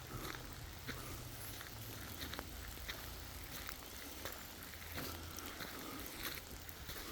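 Irregular small clicks and crackles, a few a second, over a faint steady low hum.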